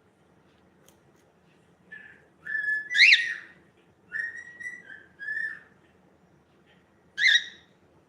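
Cockatiel whistling: a held note that sweeps sharply up about three seconds in, a run of short whistled notes, then a single short call near the end.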